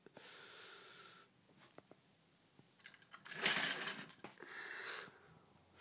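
Small battery-powered motor of a TOMY toy train whirring, with a few light clicks, louder for a couple of seconds from about three seconds in.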